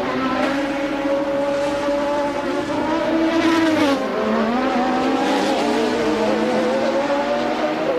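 Formula One race car engines at high revs. The engine pitch dips sharply about four seconds in, then climbs again as it picks up speed.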